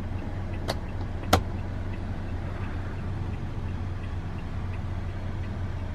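Two sharp clicks about half a second apart, from the Camry's overhead light control switches being pressed, over a steady low hum inside the car's cabin.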